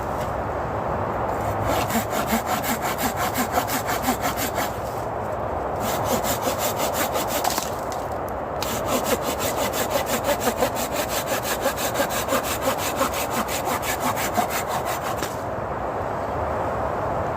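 Hand saw cutting through wood in steady back-and-forth strokes. It comes in three spells, with brief pauses about five seconds in and again near the middle, and stops shortly before the end.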